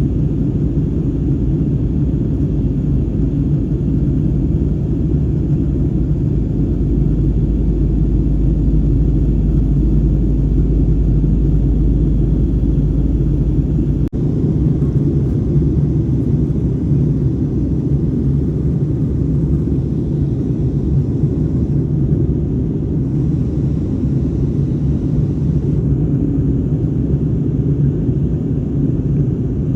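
Steady low rumble of an Airbus A320-family airliner heard from inside the passenger cabin during the descent for landing, with a brief dropout about halfway through.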